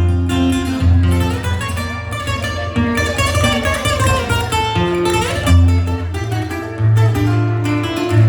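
Live Latin American band music: guitar and other plucked strings over a strong, steady bass line.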